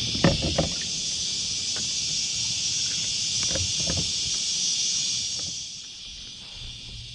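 Steady high-pitched hiss of a cicada chorus, which fades out about five and a half seconds in. A few short knocks and clatters from handling the fish on the kayak come in the first second and again around three and a half to four seconds.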